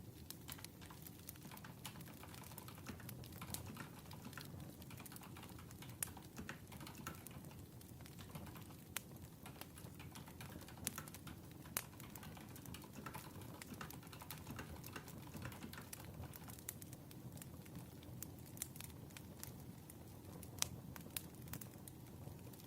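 Crackling campfire: a low, steady rumble of burning wood with irregular sharp crackles and pops.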